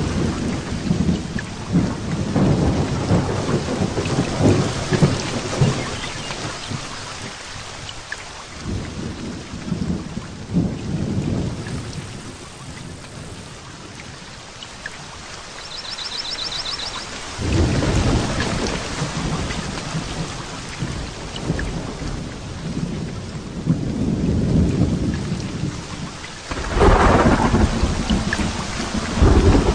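Heavy rain hissing steadily while thunder rumbles come and go, rolling several times, with a louder, sharper thunderclap near the end.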